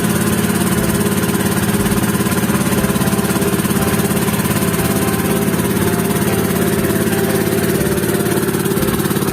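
Engine of a motorized bangka (outrigger boat) running steadily, a constant low drone with no change in speed.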